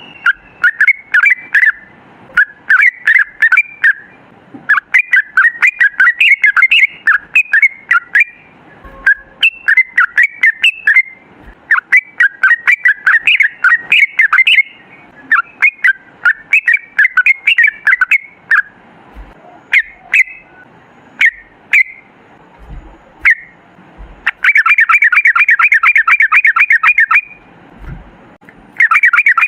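Yellow-vented bulbul (trucukan) singing loudly: bursts of quick, bubbly chattering notes broken by short pauses. After about 24 seconds come a long, very fast rolling trill of about three seconds (the ropel) and a second one just before the end.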